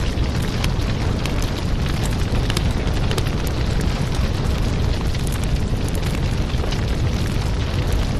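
Wood fire crackling in a fireplace: a steady low rumble of burning with many small sharp pops and snaps scattered through it.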